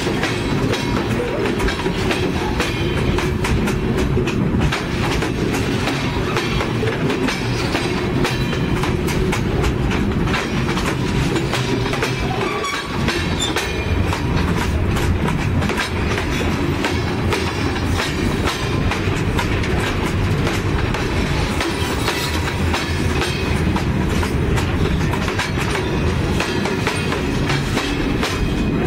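Freight cars rolling over the track, heard from between the rails directly beneath them: a steady loud rumble with wheels clicking over the rail joints.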